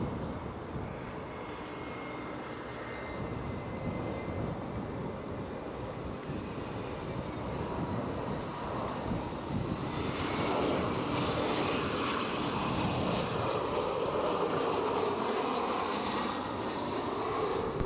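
Jet airliner's engines growing louder from about ten seconds in as it comes in to land and nears, with a rising, shifting whine over a steady rumble of strong wind.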